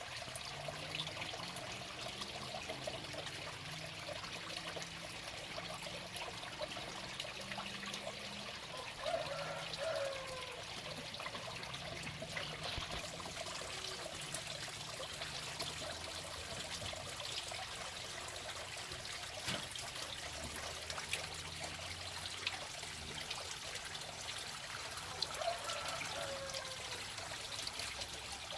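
Water trickling steadily, with scattered faint clicks. A short falling call sounds twice, about nine seconds in and again near the end.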